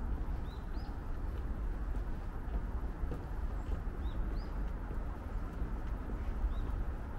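Small birds chirping: a handful of short, arched chirps, some in quick pairs, over a steady low rumble of outdoor ambience.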